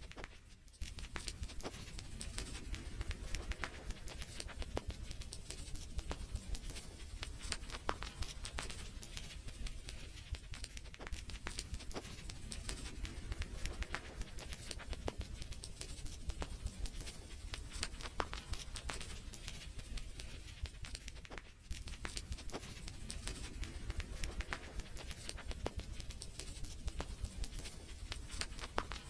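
Wood fire crackling in a fireplace: a steady hiss with dense, irregular sharp pops and snaps. It dips briefly twice, about half a second in and about 21 seconds in.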